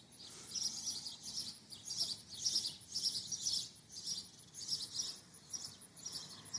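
High-pitched bird chirps repeating about twice a second.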